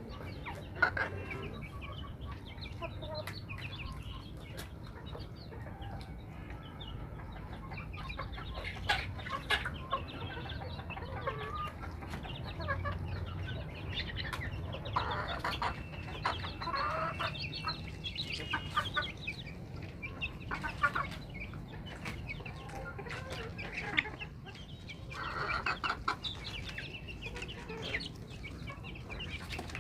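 Domestic chickens clucking, with scattered short calls and busier bursts of clucking around the middle and near the end.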